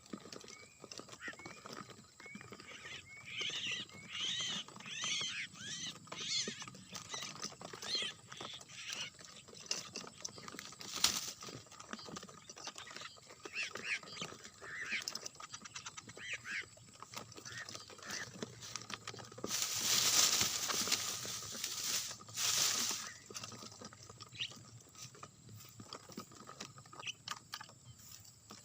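Bird calls: a run of short, high, repeated chirps for several seconds, then scattered chirps. A burst of loud rustling noise comes about two thirds of the way in and lasts a few seconds.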